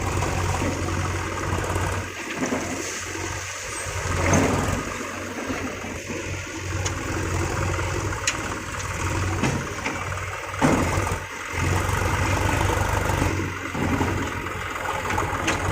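Diesel engine of heavy loading machinery running with a low steady drone, swelling about four seconds in, with a sharp knock near the eleven-second mark.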